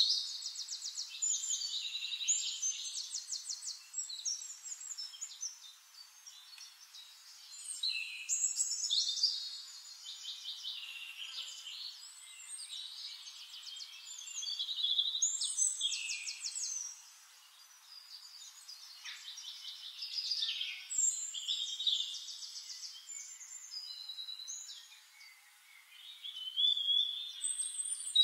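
Songbirds singing: phrases of fast high trills, whistles and sweeping notes that come in waves every few seconds with short pauses between them.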